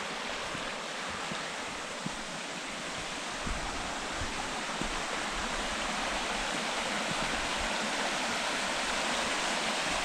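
Mountain river water rushing and splashing over rocks at a small waterfall: a steady rush that grows a little louder over the second half.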